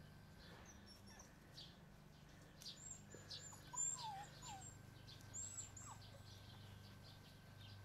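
Faint small birds chirping and calling now and then, with a few short falling calls a few seconds in, over a low steady hum.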